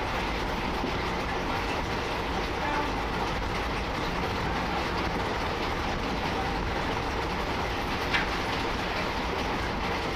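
Train running, heard from on board: the steady rumble of wheels on the rails, with one sharp click about eight seconds in.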